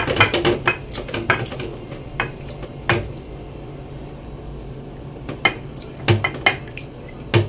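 Kitchen dishes and containers clinking and knocking irregularly as they are handled, over a steady low hum.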